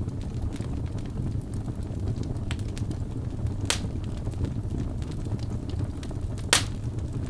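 Wood fire burning in a fireplace: a steady low rush of flame with scattered sharp crackles and pops from the logs. The loudest pop comes about six and a half seconds in, and another is a little before four seconds.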